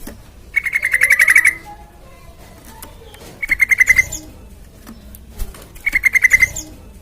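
Yellow-vented bulbul (trucukan) calling: three short bursts of rapid, evenly repeated chattering notes, about a dozen notes a second.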